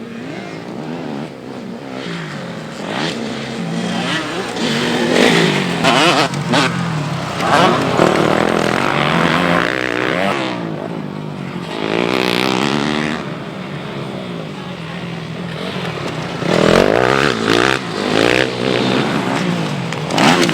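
Several motocross bikes' engines revving hard as the riders race, pitch climbing and dropping with each gear change and throttle blip, swelling louder several times as bikes pass close.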